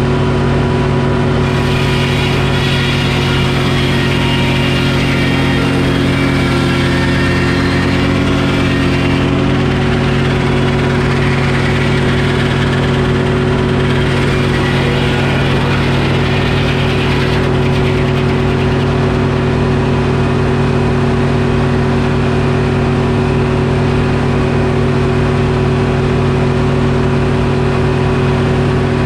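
Detroit Diesel engine driving a Frick circular sawmill, running steadily. A higher whine rides over it from about two seconds in until about seventeen seconds, as the saw blade cuts through oak.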